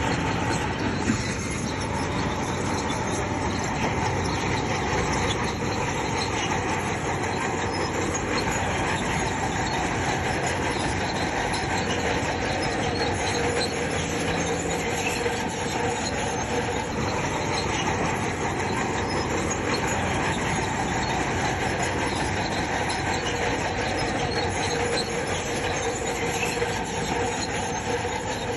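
Crawler bulldozer working: diesel engine running steadily under a constant squeal and clatter from its steel tracks.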